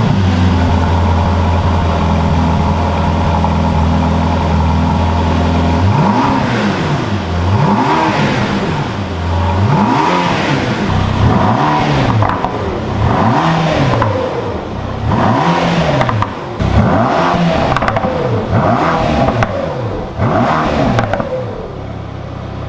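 Mercedes-AMG GT Black Series' twin-turbo V8, stationary, idling steadily for about six seconds. Then it is revved in about ten short blips, each rising and falling in pitch, roughly one every second and a half.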